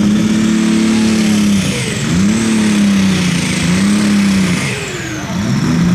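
Pulling tractor engine held at high revs on the starting line, the revs sagging and climbing back about three times, with a high whistle above it. It is struggling to get the stage up before the hook.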